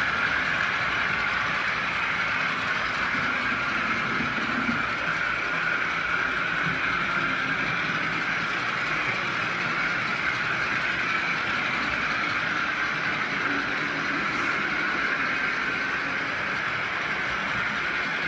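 An OO gauge model train running steadily along the layout's track, an even running sound that holds without change.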